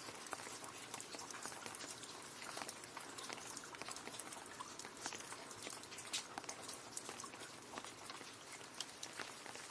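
Rain falling into a puddle: a steady hiss of rain with many irregular drips and splashes ticking through it.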